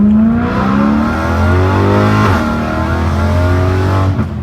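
BMW M3's S65 V8 through a catless resonated X-pipe with the exhaust valves open, revving hard: the pitch climbs, drops sharply about two seconds in, climbs again, then cuts off near the end.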